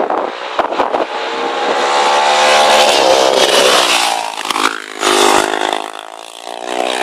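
Racing motorcycle engines passing at speed, revving up and falling away: one loud pass in the first half, then a second, shorter one.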